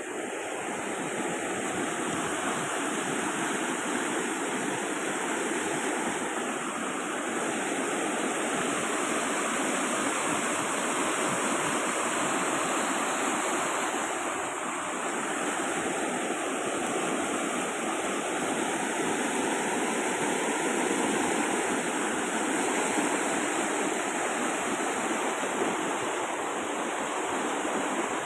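Steady rushing water, a continuous wash that swells and eases gently over the stretch.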